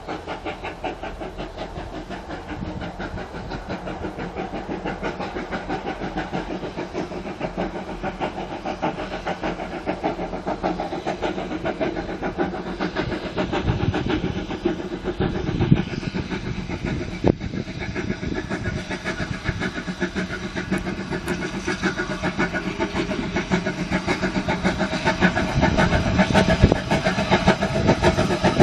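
An engine running with a steady, rapid firing beat, growing louder over the last few seconds, with one sharp knock about two-thirds of the way through.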